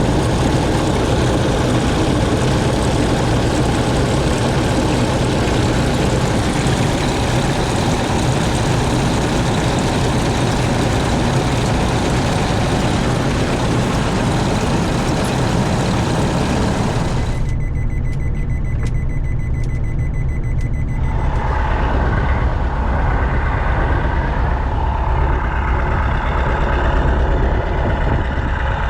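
Don-1500B combine harvester running, a steady engine drone under a loud rushing mechanical noise. About two-thirds of the way in the rushing noise cuts off suddenly, leaving the lower engine drone.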